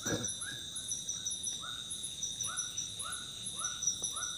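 Night forest chorus: insects keep up a steady high buzz and pulsing chirps, while an unseen animal repeats a short call two to three times a second in runs. A brief low knock or rustle sounds right at the start.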